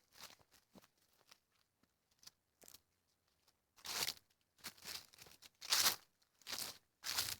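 Footsteps crunching on the woodland floor. It is quiet at first, then about five uneven crunching steps start around four seconds in.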